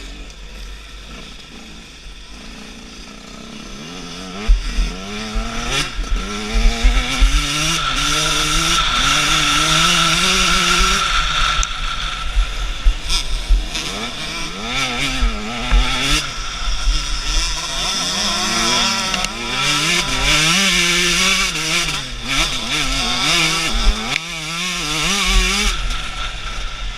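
Husqvarna TC 125 two-stroke motocross bike engine revving hard and repeatedly rising and falling in pitch as the rider accelerates and backs off around the track. There are sharp knocks and low rumble throughout.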